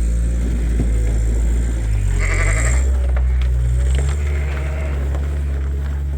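A lamb bleats once, about two seconds in, over a steady low rumble.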